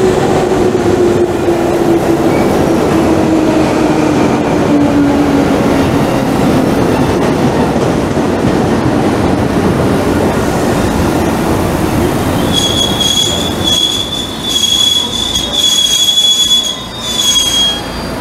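JR West 221 series electric train pulling in along the platform and braking to a stop, with loud running noise. Its motor hum falls steadily in pitch over the first several seconds. About two-thirds of the way through, a high steady brake squeal starts and lasts until the train halts near the end.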